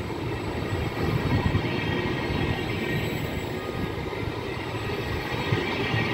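Trenitalia Vivalto double-deck regional train coaches rolling past the platform at low speed, with a steady low rolling noise of wheels on rail.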